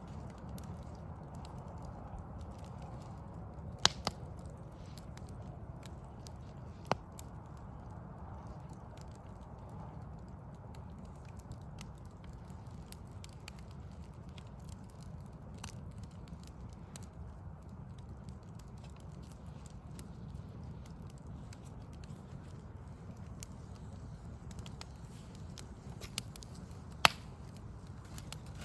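Backyard wood fire of burning logs crackling, with many faint ticks and a few sharp pops, the loudest near the end. Under it runs a steady low city rumble.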